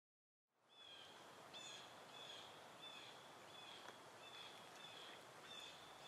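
Faint bird calling, a short high chirp repeated about every two-thirds of a second, over a quiet outdoor hiss.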